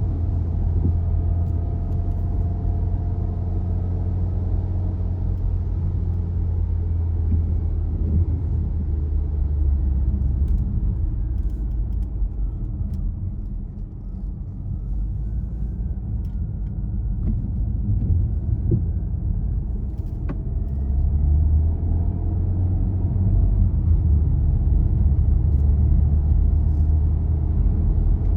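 A car being driven: a steady low rumble of engine and tyres on the road. It eases off around the middle and builds up again toward the end, with a faint whine that dips and climbs back.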